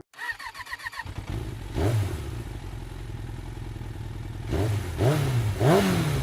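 A motorcycle engine running and revved: one rev rises and falls about two seconds in, and three quick revs come near the end. It is preceded by a brief burst of rapid chirping.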